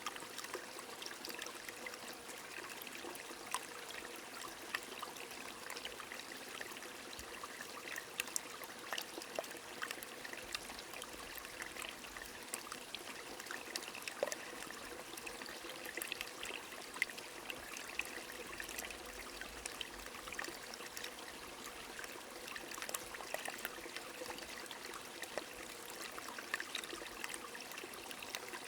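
A small stream trickling steadily under light rain, with many scattered drip and drop ticks over a continuous water rush.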